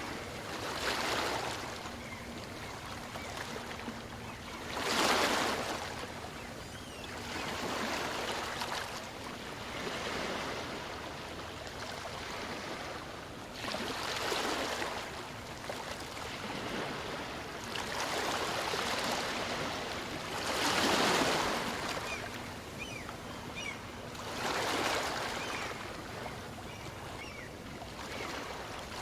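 Small waves on a calm sea breaking and washing up a sandy beach, swelling and fading about every three to four seconds.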